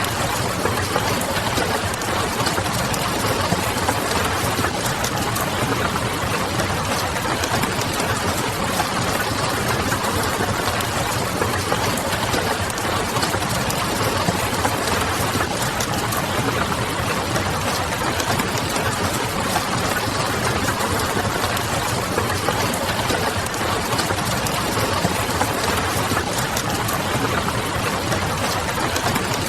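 Steady hiss of rain mixed with small crackles of a wood fire and a low, even hum.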